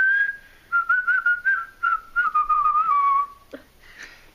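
A person whistling a tune, a clear series of notes that step gradually lower in pitch, then stopping a little over three seconds in.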